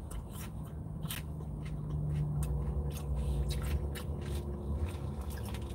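Close-up chewing of a crunchy lettuce salad: a run of short crisp crunches and clicks, over a low steady hum that swells a little in the middle.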